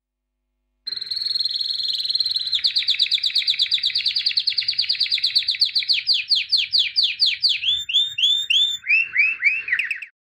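A songbird singing one long song starting about a second in: a fast trill that slows into separate falling notes, dropping lower in pitch near the end.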